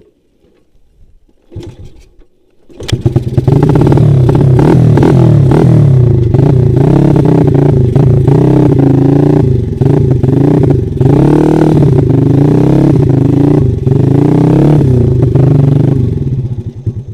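Trail/dirt bike engine revving hard, coming in abruptly about three seconds in and running loud at high revs, its pitch rising and falling with the throttle, until it drops away near the end.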